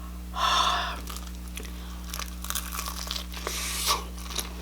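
Close-miked eating: a crunchy bite about half a second in, then chewing with small wet mouth clicks and another crunch near the end.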